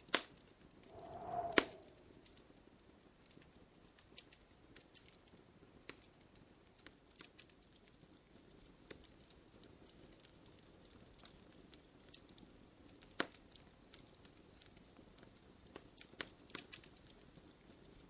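Wood fire burning in a fireplace, crackling with scattered sharp pops over a faint hiss. The loudest pops come right at the start and about a second and a half in, where a brief whistling tone also swells up.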